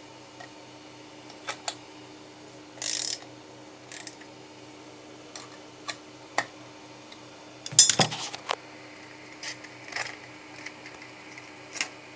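Metal clamps on a homemade CNC router's bed being loosened and the milled workpiece handled: scattered clinks and knocks, with a louder clatter about eight seconds in, over a faint steady hum.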